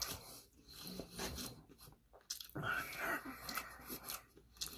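A person chewing a mouthful of food close to the microphone: irregular, quiet mouth sounds and small clicks of eating.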